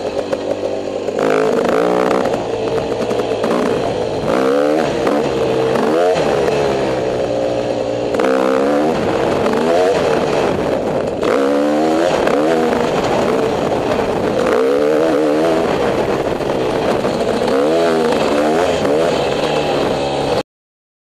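Dirt bike engine ridden hard, its pitch rising and falling again and again as the throttle is worked and gears change. It cuts off suddenly near the end.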